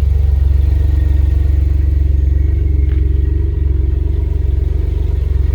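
Noble M12 GTO-3R's twin-turbo Ford Duratec V6 idling steadily, with a light click about three seconds in.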